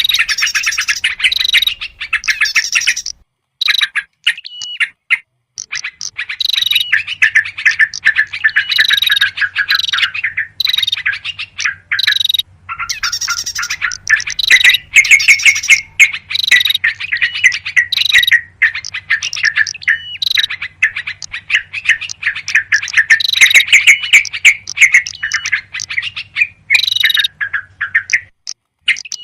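Dense, rapid chattering and chirping of small songbirds in bouts broken by short pauses. This is a bird-lure recording of agitated yellow-vented bulbul (trucukan) calls mixed with other small birds, used to draw wild birds in.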